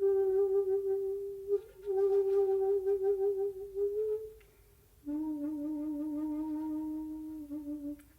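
Solo shakuhachi (end-blown bamboo flute) playing a slow honkyoku piece: a long held note with a wavering vibrato for about four seconds, a short breath pause, then a second long note a little lower in pitch that fades near the end.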